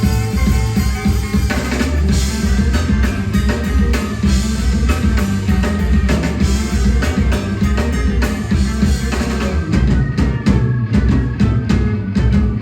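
Live rock band playing an instrumental passage: drum kit, bass and electric guitar, with the drum hits coming through more sharply near the end.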